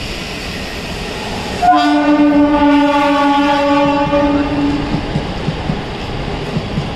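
Passing passenger train: a steady rumble, then about two seconds in a locomotive horn sounds a steady chord, held for about three seconds. After it the wheels clatter rhythmically over the rail joints.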